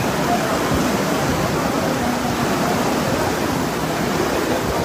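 Heavy rain pouring down steadily onto a flooded courtyard, a dense, even hiss with no let-up.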